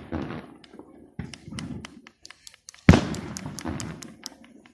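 Aerial fireworks bursting: a softer bang about a second in, then a loud bang about three seconds in with a long rolling echo, and scattered sharp pops in between.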